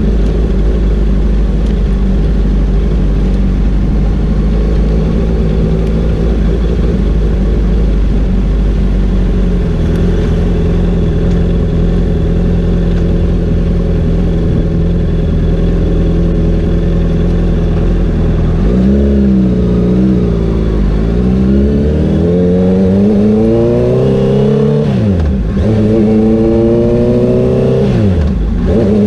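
Honda CBR650R inline-four engine running at a steady cruise, then accelerating from about two-thirds of the way in, the revs climbing and dropping at two upshifts near the end.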